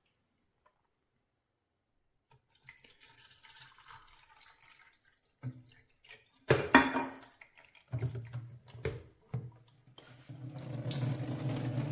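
Water trickling and dripping while a small drip filter coffee maker is handled, with a few knocks, the loudest about halfway through. Near the end a steady low hum sets in.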